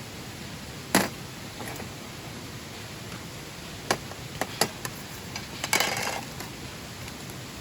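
Several sharp knocks and clacks of objects being handled, with a brief scraping clatter about six seconds in, over a steady hiss.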